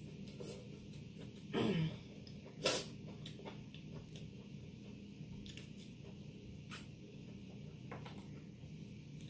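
Close-miked mouth sounds of someone chewing a taco, with small wet clicks throughout. A short falling hum comes about one and a half seconds in, and a sharp smack just under three seconds in is the loudest sound.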